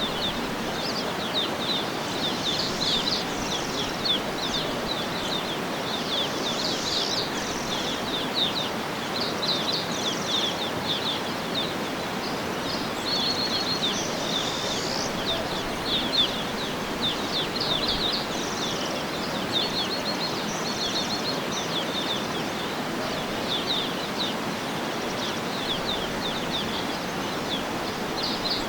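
Several birds chirping and trilling in quick, overlapping phrases over a steady, even background hiss.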